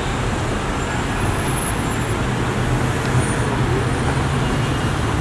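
Steady outdoor street noise, mostly passing road traffic, with a constant low hum.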